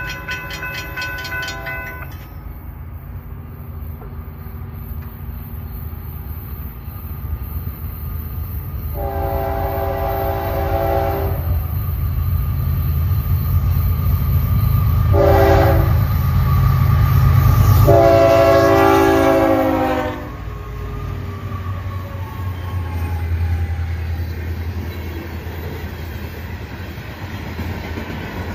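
A railroad crossing bell rings and stops about two seconds in. Then the low rumble of the FEC freight locomotives approaches and swells, with three horn blasts: long, short, long. The rumble peaks as the engines pass and gives way to the steady clickety-clack of freight cars rolling by.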